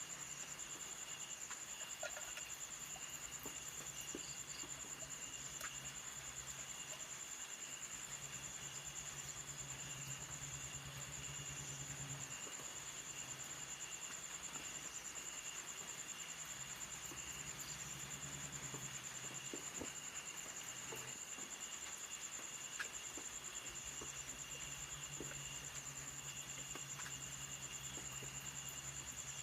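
Insects trilling without a break, one high and steady, another lower chirping in stretches of a second or two with short gaps. A low hum comes and goes underneath, with a few faint clicks.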